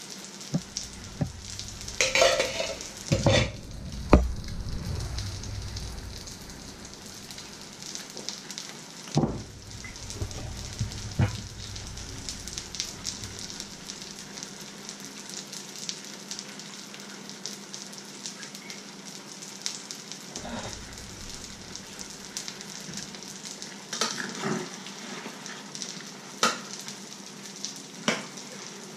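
Fish fingers and egg frying in a pan with a steady sizzle, broken by scattered knocks and clinks of utensils and cookware. Near the end a spoon clinks against a metal pot as it stirs.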